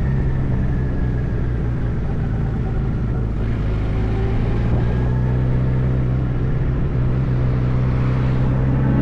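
Motorcycle engine running at a steady pace while riding, with wind and road noise.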